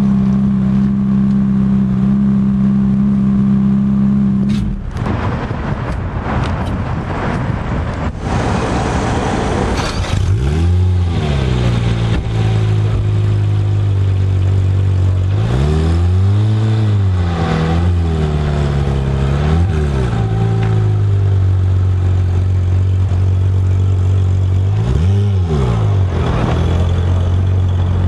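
A Ferrari F430's V8 idling steadily, then a Porsche 911 GT3's flat-six idling with about five quick throttle blips. Each blip revs up and falls straight back, and one near the middle is held longer.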